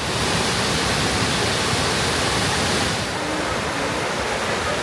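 Waterfall rushing steadily: a dense, even hiss of falling water with no breaks. Its brightest part dims slightly about three seconds in.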